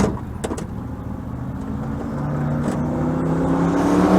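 A Ford 5.0 V8 car accelerating as it comes closer, its engine note rising and growing louder through the second half. Two sharp clicks come right at the start.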